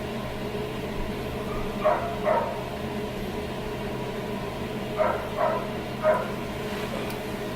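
A dog barking in short single barks: two about two seconds in, then three more a little after five seconds, over a steady background hum.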